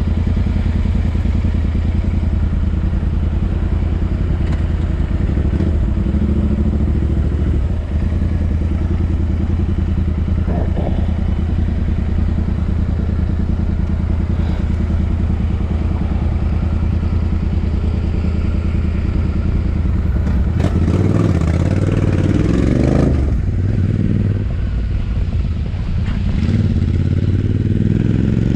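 Royal Enfield Interceptor 650's 648 cc parallel-twin engine running steadily through its exhaust, then revving up and back down twice in the last third.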